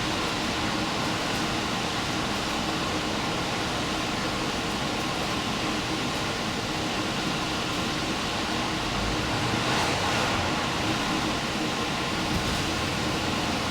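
Steady running noise of a diesel express train heard from inside at the front, a continuous rumble and hiss with a slight swell about ten seconds in.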